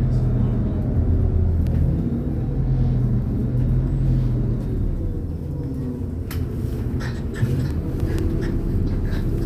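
MAZ-203 city bus engine running and its cabin droning as the bus drives, the engine note dropping a little about halfway through. Scattered clicks and rattles in the second half.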